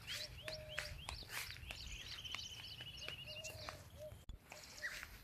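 Several birds calling: repeated quick rising chirps, a rapid trill of even notes about two seconds in, and short lower whistles. Scattered clicks and rustles sound under them.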